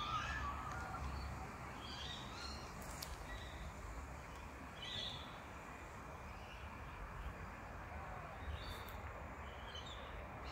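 Several brief bird calls, scattered through a few seconds, over a low, steady background rumble.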